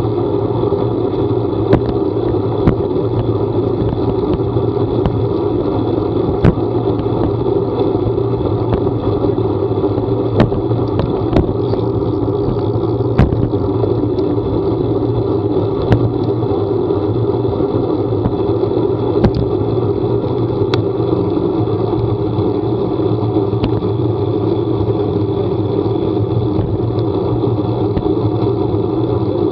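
Steady vehicle running noise during a ride: an even engine and road rumble that neither rises nor falls, with scattered sharp ticks now and then.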